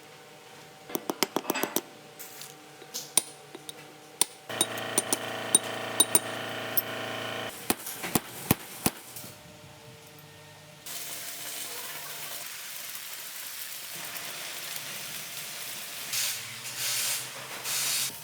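Workshop repair sounds: a quick run of metallic clicks, a few seconds of steady machine hum, then a long hiss with louder surges near the end.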